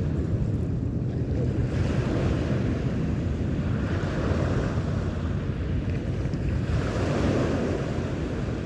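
Sea waves washing on the shore, a rush that swells every couple of seconds, with wind buffeting the microphone.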